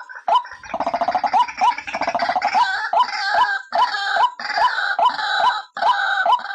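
White-breasted waterhen (ruak-ruak) calling: short notes repeated about two or three a second, broken about half a second in by a rapid gurgling trill lasting about two seconds, then harsher croaking notes at the same steady pace.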